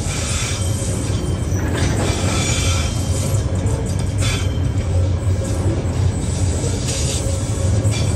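Container flat wagons of a freight train rolling past close by: a steady low rumble of steel wheels on rail, with higher wheel hiss and squeal surging every second or two.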